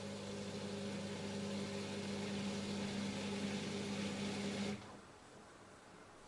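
LG F10A8HDS5 front-loading washing machine running with a steady hum and a rushing water hiss, which cut off suddenly about three quarters of the way through.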